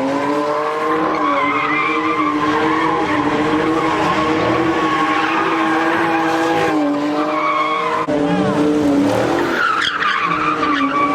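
A car engine held at high revs while its tyres squeal through a burnout or donuts, the engine pitch dipping briefly a few times before climbing back.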